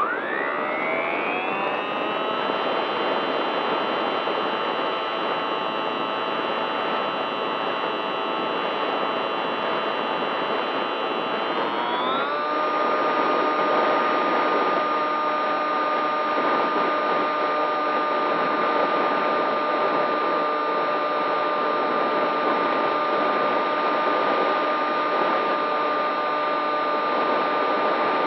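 Electric RC model aircraft motor and propeller whining steadily. The pitch rises as the throttle opens in the first couple of seconds, then steps up again about twelve seconds in and holds.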